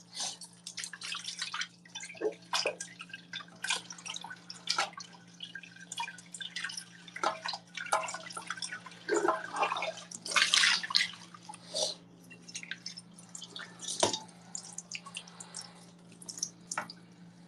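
Dishes being washed by hand at a sink: water splashing and dripping, with dishes and cutlery clinking, and a louder rush of water about ten seconds in. A steady low hum runs underneath.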